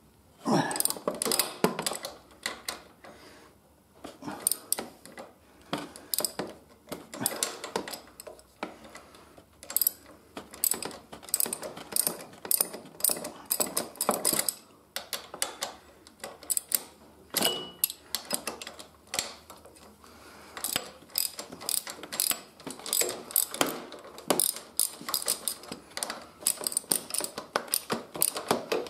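Ratchet spanner clicking in quick runs as the upper fork clamp bolts are worked loose, with a louder snap about half a second in.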